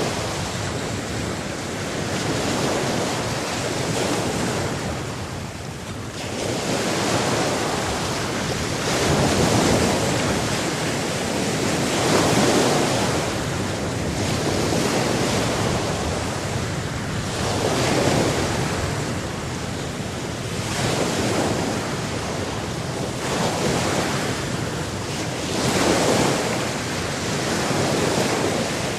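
Sea waves breaking and washing on a shore, a rushing surge that swells and ebbs every few seconds.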